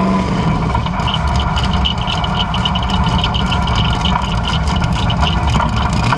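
Car engine running steadily, with a rapid run of sharp ticks and crackles from about a second in.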